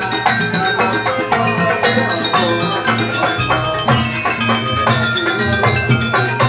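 Gamelan ensemble playing: struck metallophones ring in a steady run of notes over drum beats and a sustained low tone.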